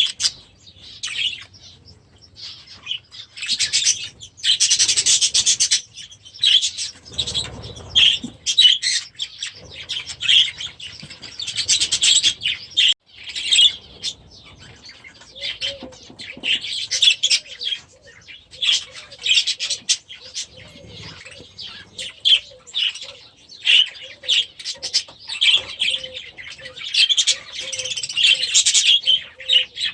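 A flock of budgerigars chattering and chirping in fast, uneven bursts.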